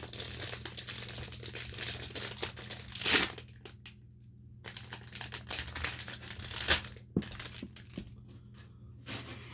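Packaging crinkling and rustling as packaged fidget toys are handled, in two busy stretches with a short pause between them and only a few faint clicks near the end.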